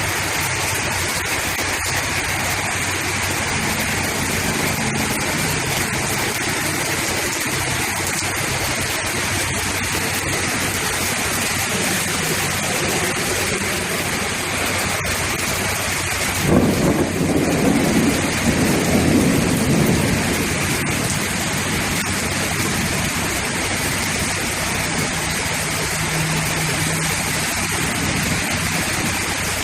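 Heavy rain pouring steadily. A little past halfway a low rumble starts suddenly and swells for about four seconds before fading back into the rain.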